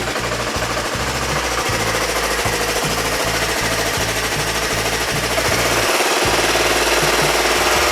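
Lawn tractor engine running on choke just after starting, with an uneven low chugging beat.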